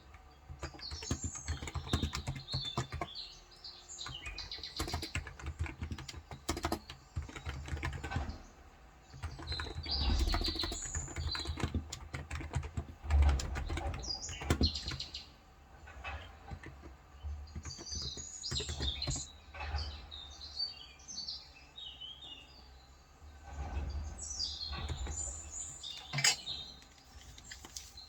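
Typing on a Cox Endeavour electro-capacitive keyboard with 35 g switches, in runs of quick key strokes with short pauses. Birds chirp and twitter over it several times.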